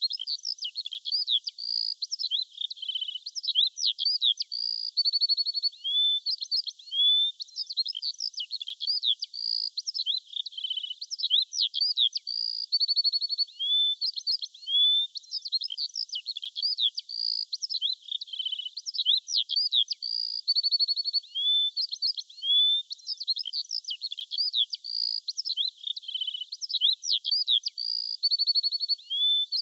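Songbirds chirping and trilling, high-pitched, in many overlapping calls with rising whistles and buzzy trills. The same sequence repeats about every eight seconds, like a short looped recording.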